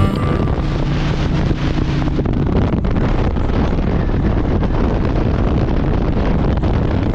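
Wind rushing over the microphone of a moving motorcycle, with the engine running underneath.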